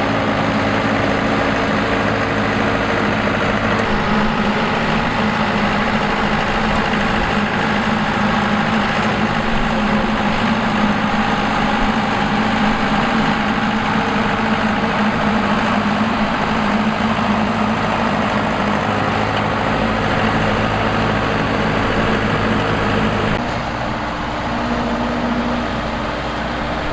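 Combine harvester's engine and machinery running steadily. Near the end the sound drops a little and its pitch shifts.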